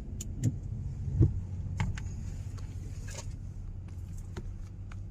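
Car engine running steadily at a low hum, with scattered clicks and a louder thump about a second in.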